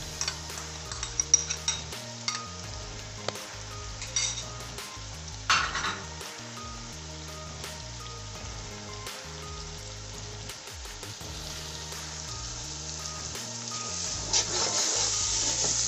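Tomato and ginger-garlic masala sizzling in hot oil in a deep pot as a scoop of yogurt goes in, with a few sharp clinks of the spoon against the pot in the first seconds. Near the end the stirring starts and the sizzling gets louder.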